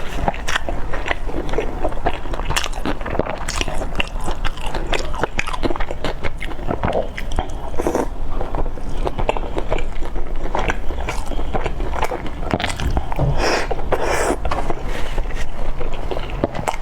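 Close-miked chewing of a large steamed dumpling with a pumpkin, wood ear mushroom, glass noodle and tofu filling: continuous wet mouth smacks and soft bites in an uneven rhythm.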